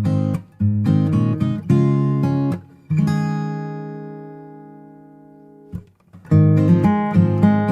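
Background music of strummed acoustic guitar chords. About three seconds in, one chord is left ringing and slowly fades; after a brief break the strumming starts again.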